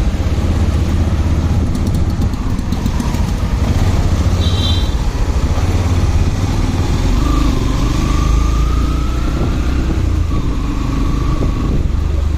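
Motorcycle engine running while riding, with a steady low rumble throughout and a faint tone rising in pitch for a second or so about halfway through.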